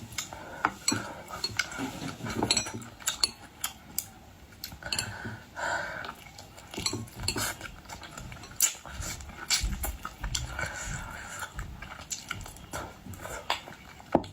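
Close-up eating sounds: many irregular sharp clicks and clinks of utensils against dishes, with chewing between them.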